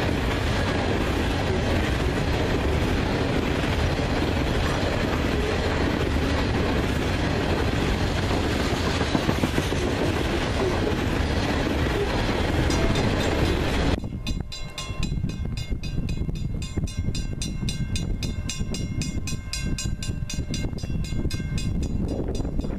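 Freight train passing close by, a loud steady rumble of rolling cars. About fourteen seconds in the sound cuts off abruptly to a quieter, rapid, even clicking.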